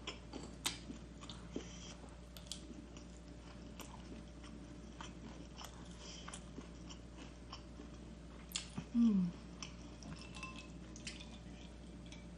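Close-miked chewing and biting of crunchy Korean spicy garlic fried chicken, with scattered sharp crunches and mouth clicks. About nine seconds in comes a short, low vocal sound that falls in pitch.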